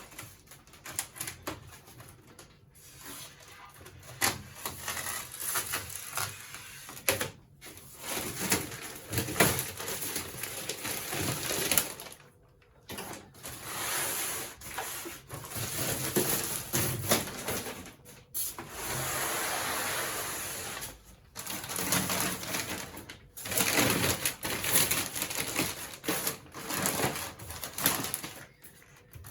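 Cardboard and polystyrene packaging being cut and pulled off an appliance: irregular rustling, scraping, creaking and clicking in bursts, broken by brief pauses.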